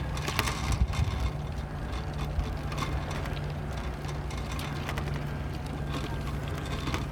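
Wind rumble and tyre noise from a moving bike ride, with a steady low hum and a few knocks and rattles about a second in.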